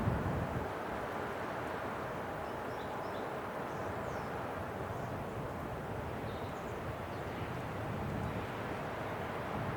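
Winter wind blowing steadily. A gust eases off in the first moment and the wind starts to build again near the end.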